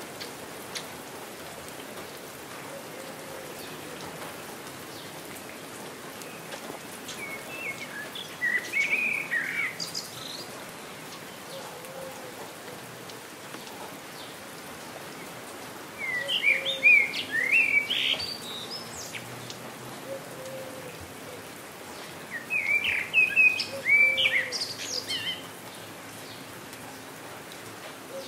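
Steady rain falling, with a songbird singing three phrases of quick, rising and falling chirps: about eight seconds in, about sixteen seconds in, and about twenty-three seconds in.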